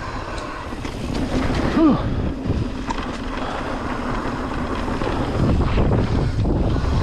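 Wind rushing over the microphone of a mountain bike rider on a downhill run, over the steady rumble and rattle of the bike on the trail. About two seconds in there is one short arching pitched sound.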